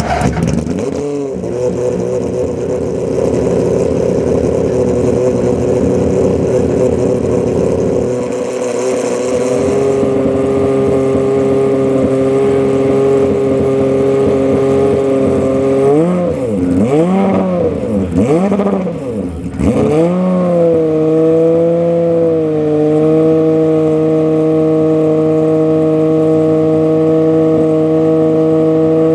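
Aston Martin Vulcan's 7.0-litre V12 idling just after a start, rough and uneven at first, then settling. About two-thirds of the way through it takes three quick throttle blips, then returns to a steady idle.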